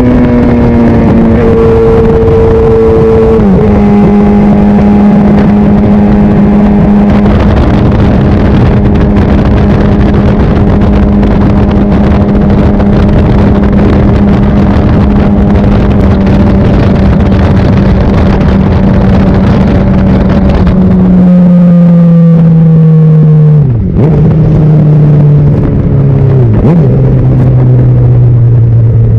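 Honda CBR600RR's inline-four engine running under way at steady revs for most of the time, then its pitch falls in steps near the end, with two short dips, as the bike slows.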